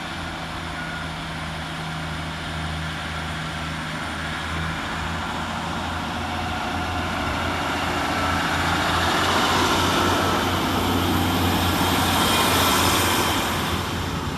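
Class 150 Sprinter diesel multiple unit pulling out: a steady underfloor diesel engine drone, with wheel and rail noise building until it is loudest near the end, then starting to fade.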